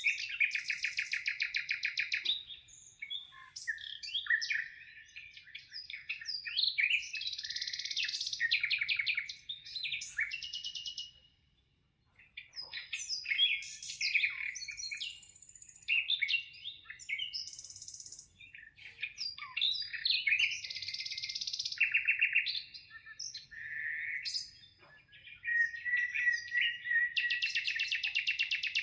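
Several birds singing together: overlapping rapid trills and high chirps, with a brief lull near the middle.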